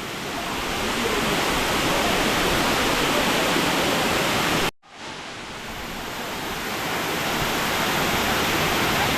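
Waterfall rushing, a steady roar of falling water. It cuts out abruptly for a moment about halfway through, then swells back up.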